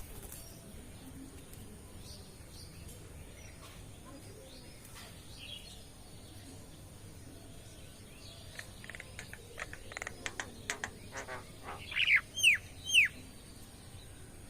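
Birds calling: a run of short, sharp chips, then three loud calls that slide downward in pitch near the end.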